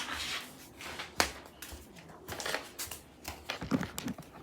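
Paper being handled and rustled, with scattered light crinkles and taps and one sharp click about a second in.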